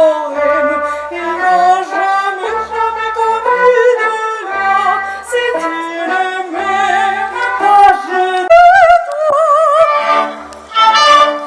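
Live operatic music from a symphonic ensemble, with sustained chords. Near the end a high line wavers with strong vibrato, and the piece closes about eleven seconds in.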